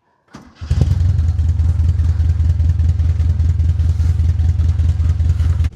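Ford 17M's 1.7-litre V4 engine running steadily, picked up close to the exhaust by a microphone on the rear bumper. It has a loud, low pulsing hum that comes in about half a second in and cuts off suddenly near the end.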